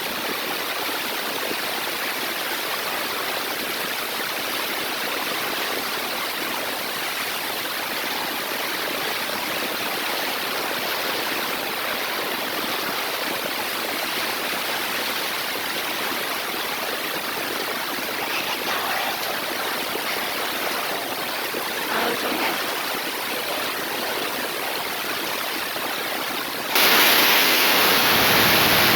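Steady rushing hiss of heavy rainwater pouring down like a waterfall. Near the end it jumps abruptly to a louder, flatter hiss.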